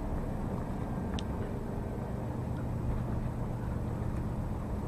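Lorry's diesel engine running steadily with road noise, heard from inside the cab while driving: a constant low drone.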